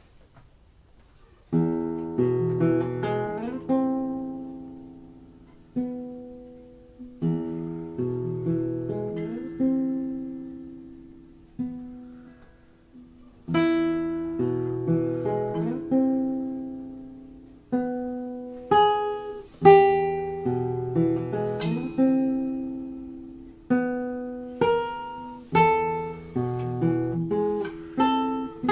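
Custom-built acoustic guitar played solo after about a second and a half of quiet: a slow piece of plucked chords and melody notes in phrases, each phrase left to ring and fade before the next.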